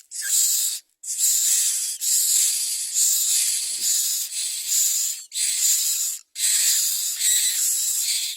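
Common myna nestlings begging with harsh, hissing rasps, repeated in bursts of about a second or longer with short breaks between them.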